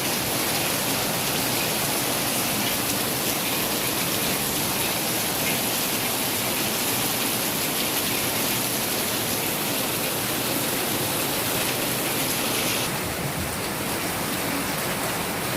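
Steady rain falling: an even, unbroken hiss of rainfall, its highest hiss softening slightly about thirteen seconds in.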